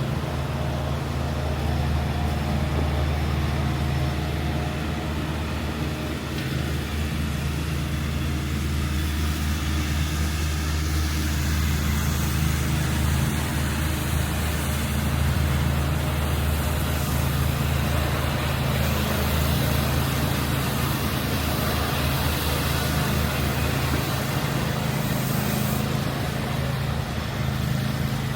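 City street traffic: a steady low engine hum of motor vehicles under an even wash of road noise.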